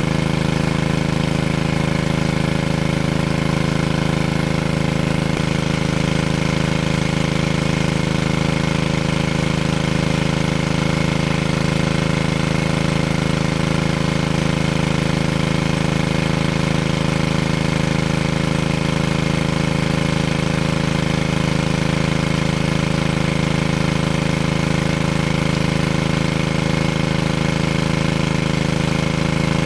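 A small engine running steadily at one speed, with a constant hum that neither rises nor falls.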